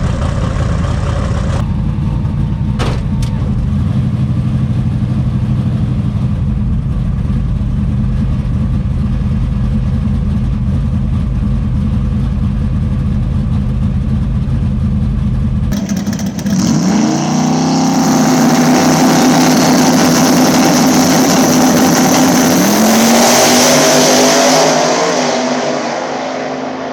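A drag car's engine running at a low, steady rumble, then race engines under hard acceleration down the strip. The pitch climbs, drops briefly near the end at a gear change, and climbs again.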